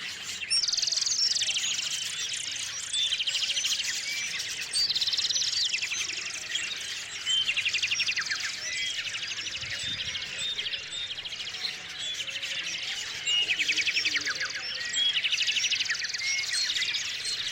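Small songbirds chirping and singing, several rapid trilled songs of about a second each recurring every few seconds over steady chirps.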